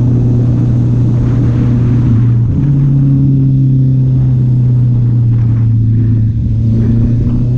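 Honda CB650R's inline-four engine running at a steady speed, its pitch stepping up slightly about two and a half seconds in.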